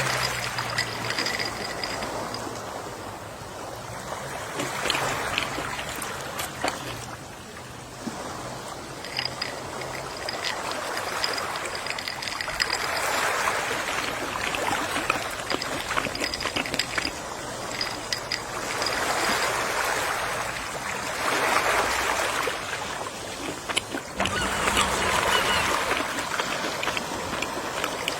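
Gentle sea waves washing ashore, the surf swelling and fading again every few seconds.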